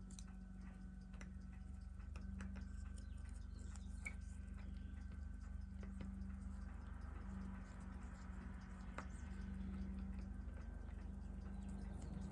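Faint, irregular small clicks of metal watchmaker's tools against watch movement parts during disassembly, over a steady low electrical hum.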